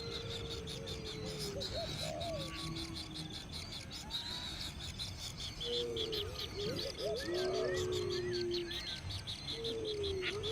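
Birds calling: long, low whistled notes that slide and waver, with a quick run of four short higher chirps about three-quarters of the way through, over a steady fast high-pitched chirring of insects.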